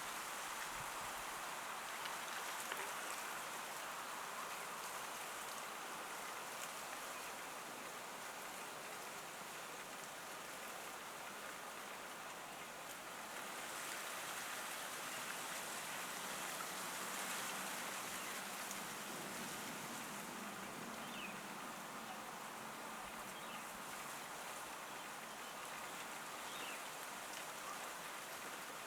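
Steady outdoor hiss of rain, with a few faint short high bird chirps in the last third.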